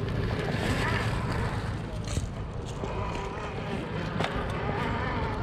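Electric motor and drivetrain of an RC crawler truck whining, the pitch wavering up and down with the throttle, with a few sharp knocks about 2 and 4 seconds in.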